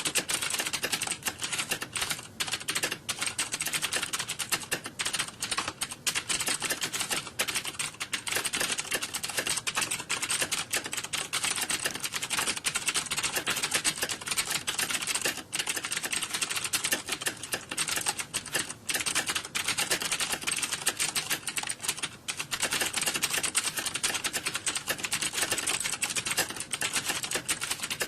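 Computer keyboards being typed on fast: a dense, unbroken clatter of keystrokes with no pauses.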